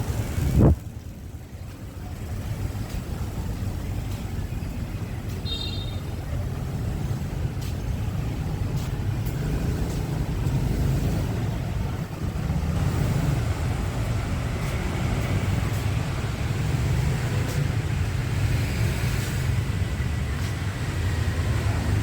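Street traffic: a steady low rumble of passing vehicles, with a brief loud thump about half a second in.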